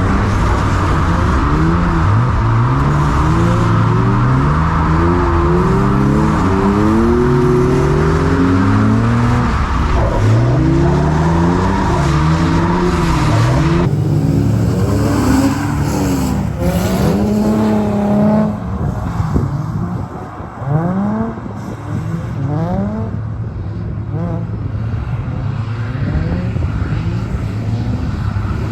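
Drift car engines revving hard up and down in rapid sweeps, with several engine notes overlapping as cars slide in tandem. The sound changes abruptly about halfway through, and after that the revving comes in shorter, more scattered bursts.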